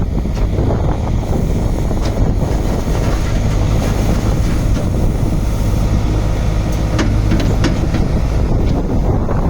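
Diesel engine of a Case 770EX backhoe loader running at a steady speed with a constant low hum. A few short clicks or knocks come about two-thirds of the way through.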